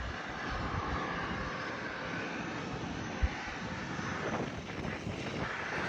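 Aircraft engines running steadily, heard as an even rush of jet noise across the apron, with one brief low thump about three seconds in.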